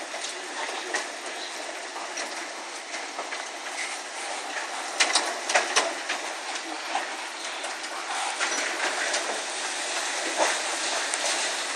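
Hailstorm with large hailstones, golf ball to baseball size, pelting down: a steady dense roar with scattered sharp cracks as single stones strike, a little louder in the second half.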